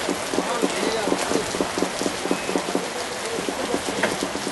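Steady rain falling, with many short drop hits close by.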